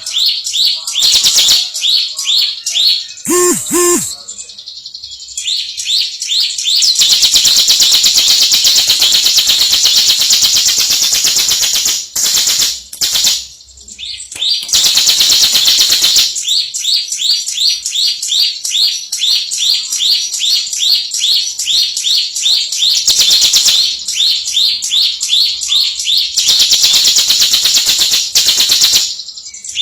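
Prinia (ciblek) singing in the rapid 'ngebren' style: long runs of quick, repeated high notes, broken by a few pauses.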